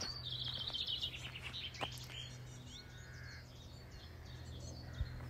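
Songbird singing a quick run of notes that steps down in pitch over about two seconds, followed by fainter chirps, over a steady low hum.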